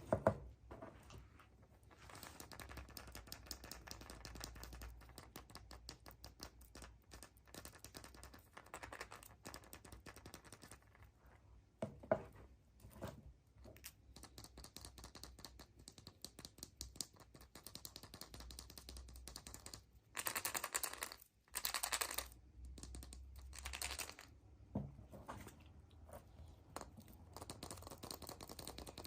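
Surprise eggs being unwrapped and opened: a dense run of small crinkles and clicks from foil wrappers and plastic capsules being handled. There are louder bursts of crinkling about twenty and twenty-two seconds in, and a few sharper clicks.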